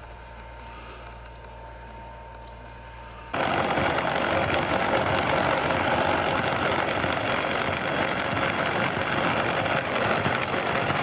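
A faint low hum, then about three seconds in a loud engine running cuts in suddenly and continues steadily, dense and rattly.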